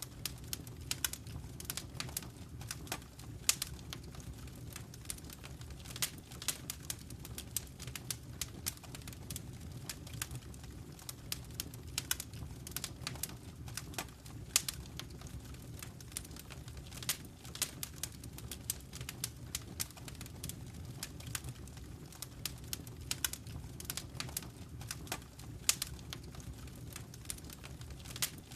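Wood fire burning in a fireplace: steady irregular crackling with sharp pops several times a second over a low, even rumble of the flames.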